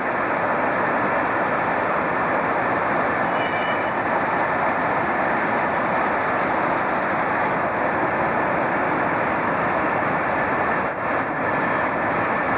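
Steady, even rushing noise of a train in motion, with a faint high whine running through it.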